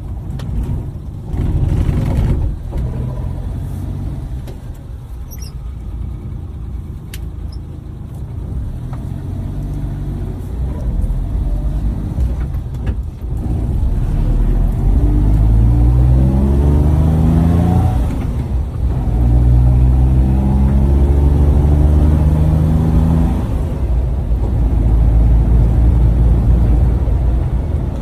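Maruti Suzuki Omni's three-cylinder engine running with road rumble while driving. About halfway through, the engine note climbs as the van accelerates, drops at a gear change, and climbs again.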